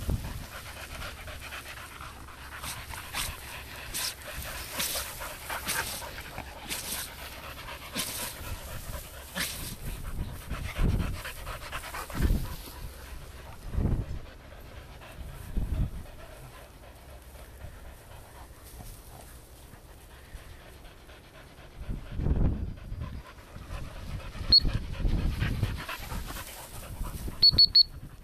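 Springer spaniels panting, with a run of short, sharp dog sneezes in the first third. A few low thuds in the middle, and near the end several short high pips from a recall whistle, the loudest sounds here.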